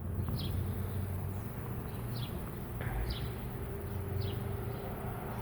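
Honeybee swarm buzzing steadily as the bees settle onto a new hive box, a little noise that goes with their fanning as they take to it. A bird gives four short falling chirps over it.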